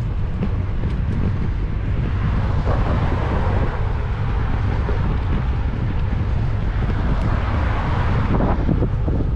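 Wind buffeting a GoPro's microphone on a moving bicycle: a steady, heavy low rumble, with a hiss that swells twice.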